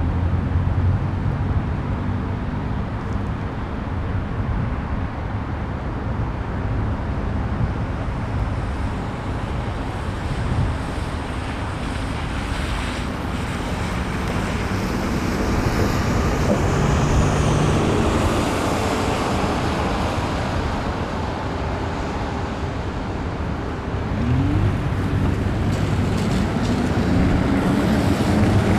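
City traffic on wet roads heard from a moving e-bike: cars passing with tyre hiss, with wind on the microphone. It gets a little louder near the end.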